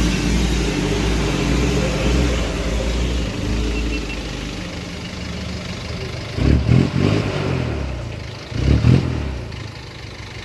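An off-road 4x4's engine running steadily, then revved in two short bursts, about two seconds apart, in the second half.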